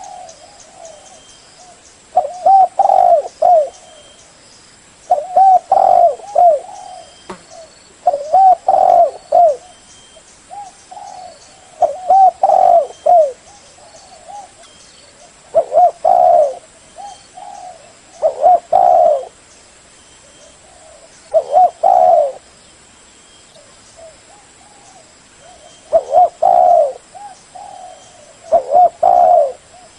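Spotted dove cooing: phrases of low, bouncing coo notes repeated about every three seconds, nine times, with a longer pause near the middle.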